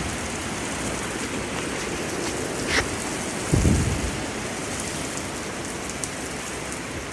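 Heavy thunderstorm rain pouring steadily, with a brief low thump about halfway through.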